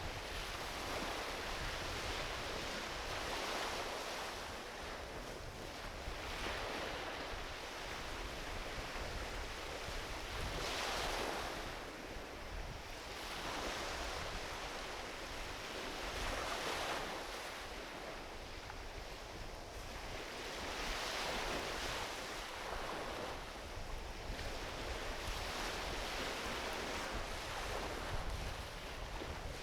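Small ocean waves washing onto a beach, the surf swelling and falling back every three to four seconds, over a steady low rumble of wind on the microphone.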